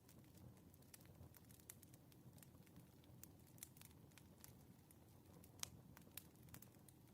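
Wood fire crackling faintly, with irregular small snaps and one sharper pop about halfway through, over a low steady rumble.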